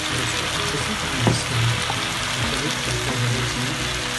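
Chicken and freshly added masala paste sizzling as they fry in a kadai, the start of frying the masala. A metal spatula stirs them, knocking against the pan about a second in and again shortly after.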